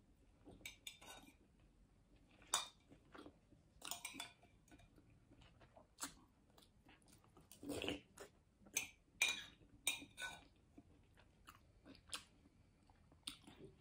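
Faint chewing and wet mouth smacks, irregular, with occasional light clinks of a metal spoon against a ceramic bowl.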